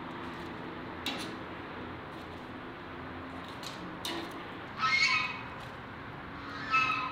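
A bird squawks twice in short calls, about five seconds in and again near the end, over a steady background noise with a few faint clicks.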